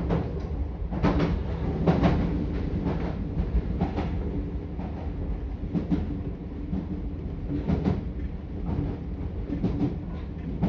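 Meitetsu 4000 series electric train running, heard from inside the front car: a steady low rumble and hum, with a sharp wheel click over a rail joint every second or two.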